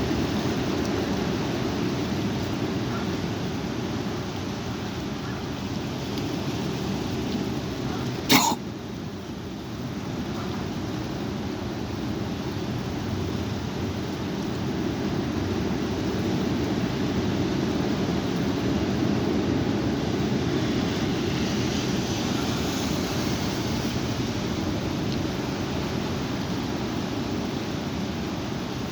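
Strong wind buffeting the microphone, a steady low rumbling noise, with a single sharp click about eight seconds in.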